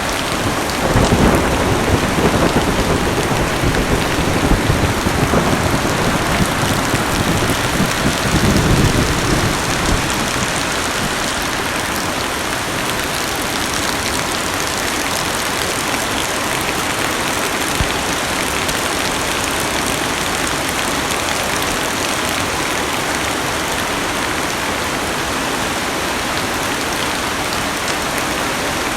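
Heavy rain falling on a car's roof and windows, heard from inside the cabin as a steady, even hiss. A low rumble of thunder runs under it for the first ten seconds or so, then fades.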